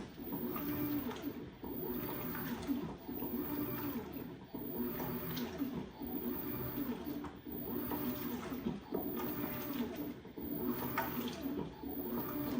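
LG 16 kg washing machine in its wash cycle, water churning and sloshing with the towels in the drum, in surges broken by short dips every couple of seconds.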